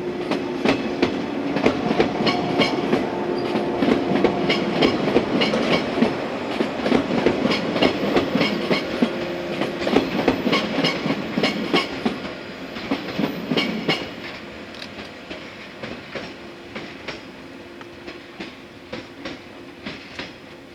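Electric multiple-unit train running on the rails, its wheels clicking over the rail joints in a rapid clickety-clack over a steady rumble and hum. The sound fades after about 14 seconds as the train moves away.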